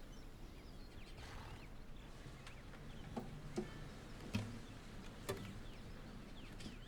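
Faint barnyard ambience: a few short chicken clucks, spaced a second or so apart, over a low steady background hum.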